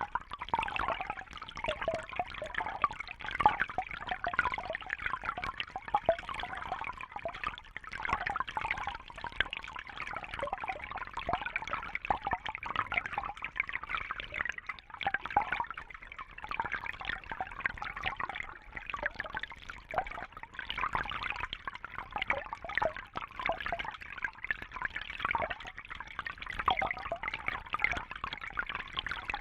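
Fish-tank water trickling and bubbling steadily, a dense patter of small splashes.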